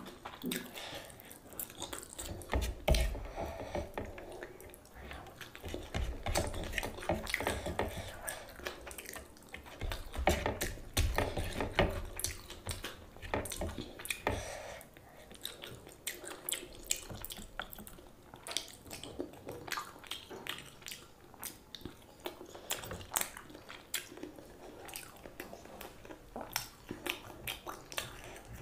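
Close-miked chewing and wet mouth sounds of a person eating spicy chowmein noodles: a steady run of small sticky clicks and smacks.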